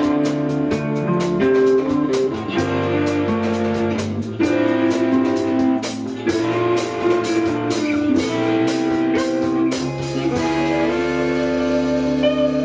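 Live band playing an instrumental passage: guitar chords ringing over a steady drum beat with cymbal hits.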